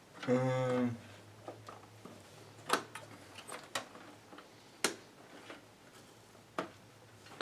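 Sparse light clicks and taps of hands handling computer hardware, as a RAM stick is lined up with its motherboard slot. There are about five clicks spread out, and a brief hummed voice about half a second in.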